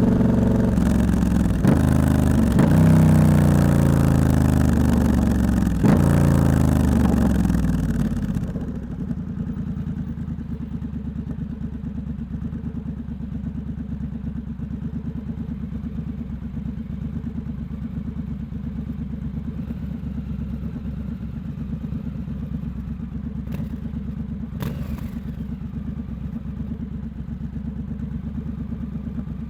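Triumph Scrambler 1200 X's parallel-twin engine through a loud aftermarket Hitchcox exhaust, revving up with a few gear changes, then winding down as the bike slows. About nine seconds in it drops to a steady, low idle that runs on.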